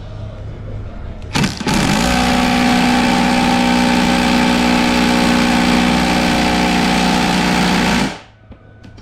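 A motor switches on about a second and a half in, runs loud and steady with a whine for about six seconds, then cuts off abruptly.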